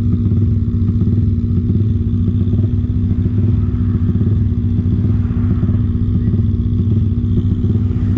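Motorcycle engine running steadily at an unchanging pitch, with a dense low rumble under it.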